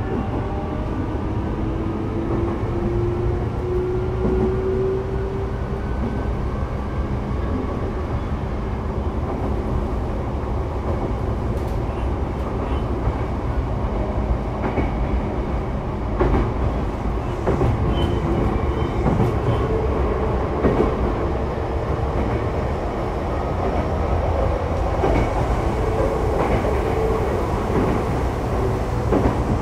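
Sotetsu 12000 series electric train running, heard inside the car: a motor whine rises in pitch over the first several seconds as the train gathers speed, over a steady rumble of wheels on track. Later there are scattered clicks of the wheels crossing rail joints.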